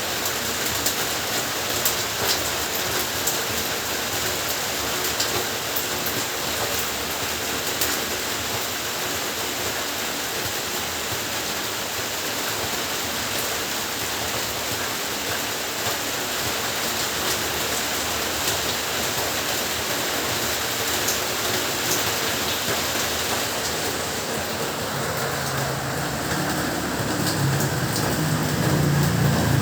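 Heavy rain falling steadily, with scattered sharp ticks of drops striking close by. A low rumble builds over the last few seconds.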